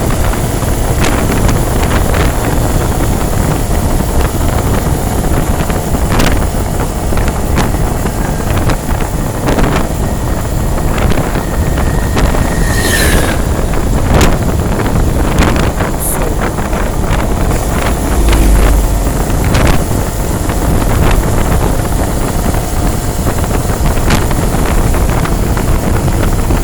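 Wind buffeting the microphone over a steady rumble of road and engine noise, with scattered knocks and a brief tone about halfway through.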